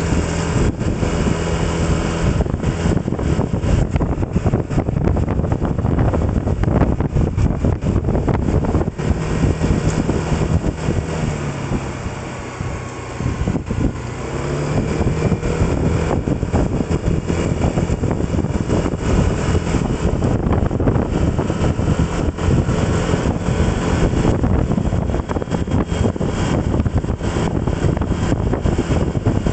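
Road vehicle engine running under way, with loud rushing road and wind noise. About twelve seconds in, the engine note drops and the sound eases as it slows. About two seconds later the note climbs back up as it picks up speed again.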